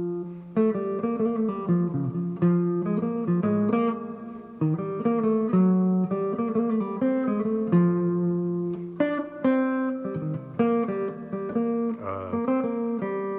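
Guitar playing a jazz chord progression: a steady run of plucked chords and single notes, each ringing briefly before the next.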